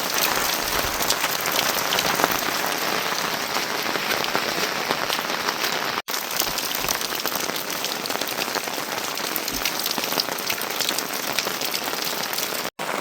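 Steady heavy rain, a dense patter of many separate drops. There are two very brief silent gaps, about halfway through and near the end.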